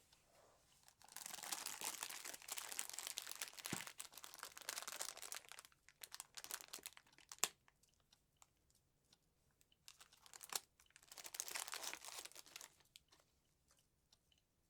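Packaging crinkling and rustling as it is handled, in two long stretches about ten seconds apart, with scattered light clicks and taps in between.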